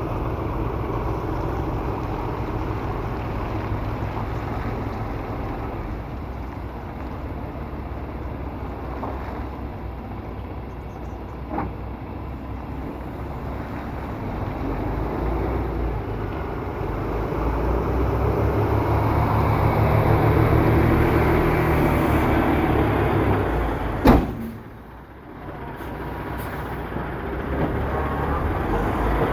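Semi-truck's diesel engine running with a steady low rumble that grows louder past the middle. Near the end comes one sharp bang, the loudest sound, and the rumble briefly drops away after it.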